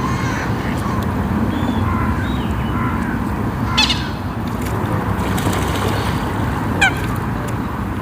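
Waterfowl calling over a steady low rumble: scattered short calls, a sharp call about four seconds in, and a quick falling run of calls near seven seconds.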